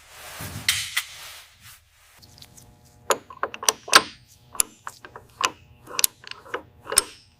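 A short hiss, then a dozen or so sharp metallic clicks and knocks at an uneven pace: hand tools working on metal bolts and fittings, over a faint steady hum.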